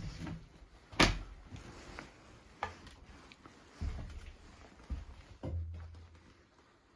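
A series of knocks and thuds, like a door or panel being handled, the loudest about a second in, followed by a short low hum.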